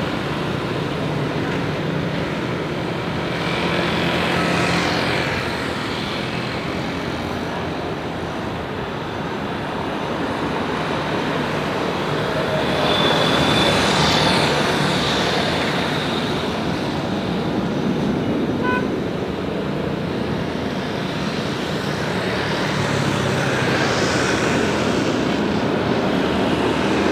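Airbus A320's CFM56 jet engines running, a steady noise that swells and eases, mixed with road vehicles passing every ten seconds or so.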